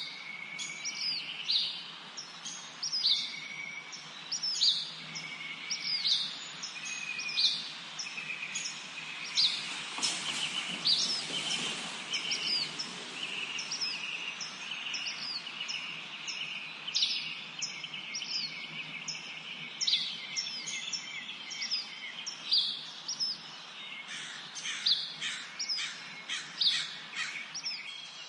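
Several songbirds singing in a forest: a continual series of short, high chirps over a lower, steadier trill. A brief swell of hiss comes about ten seconds in.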